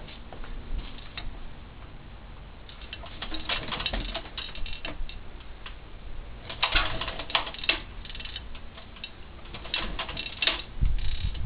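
Bursts of rapid clicking and clattering, three times about three seconds apart, from work on a 1935 Kelvin E2 marine engine as it is readied for starting; low thudding begins near the end.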